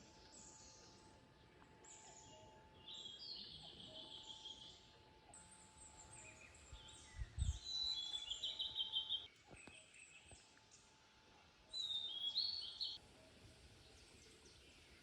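Wild birds singing in woodland: high chirps throughout, broken by three bursts of fast trilled phrases about three, eight and twelve seconds in. A single dull low thump sounds just after seven seconds.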